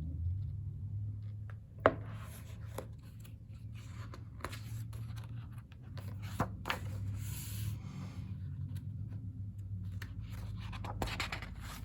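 Pages of a photobook being handled and turned: a few sharp paper taps and clicks, a short rustling swish about seven seconds in, and more clicks near the end, over a low steady hum.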